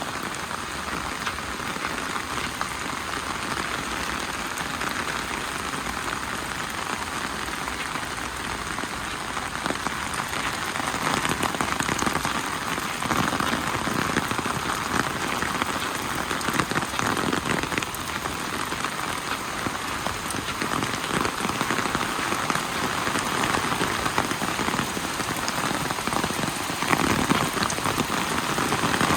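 Steady rain falling, a dense hiss dotted with countless individual drop hits, growing a little heavier about a third of the way in.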